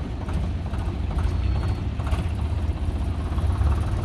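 Heavy diesel engine running with a steady low rumble, from a tractor towing a crane to start it.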